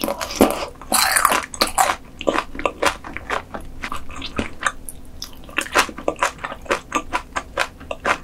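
Close-miked eating: a person biting and chewing food, with louder crunches in the first two seconds, then a quick run of short, wet chewing clicks.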